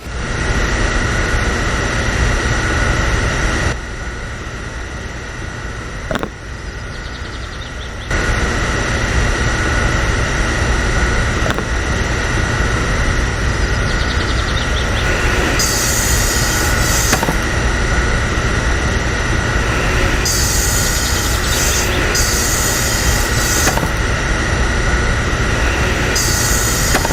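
Small electric motor of a homemade mini tractor and wood-saw model running with a steady high whine. It drops in level for a few seconds near the start, and three bursts of high hiss come in the second half.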